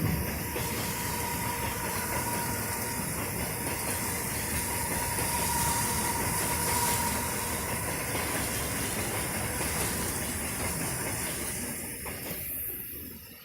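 Heavy rain pouring down, a steady hiss that fades near the end.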